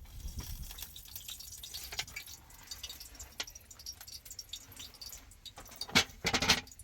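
Scattered small clicks and taps, with a louder cluster of sharp knocks about six seconds in.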